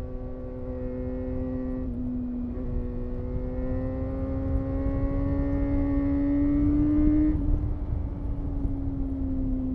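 Honda CBR250RR (MC22) 249 cc inline-four engine running at high revs on the move. Its pitch dips briefly about two seconds in, climbs slowly, then drops about three-quarters of the way through as the throttle eases. A low wind rumble runs underneath.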